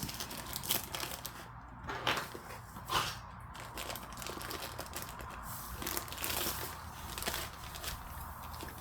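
Packaging of a diamond painting kit crinkling and rustling as it is opened by hand, with a few sharp crackles.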